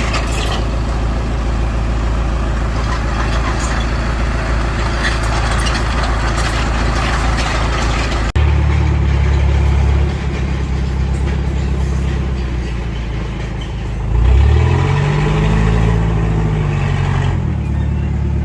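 Heavy diesel machinery engine running steadily. About eight seconds in the sound changes abruptly to a deeper, louder engine note, which revs up and falls back again a little after the middle.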